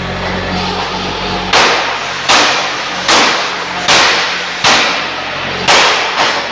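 Seven sharp, hissing strikes about three-quarters of a second apart, over the steady hum of the friction stir welding machine.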